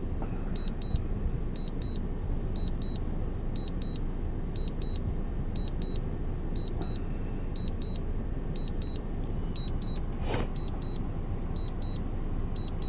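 Drone remote controller's low-battery warning: short high double beeps repeating steadily about every half second to second, over a steady rumble of wind buffeting the microphone.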